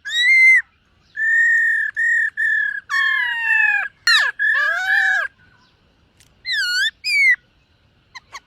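Black-throated laughingthrush singing: a run of loud, clear whistled notes, mostly held level with some sliding down in pitch, then after a short pause two dipping whistles near the end.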